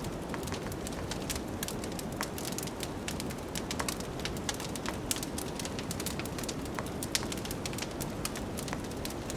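Wood fire crackling with many small irregular pops over a steady low rush of blizzard wind.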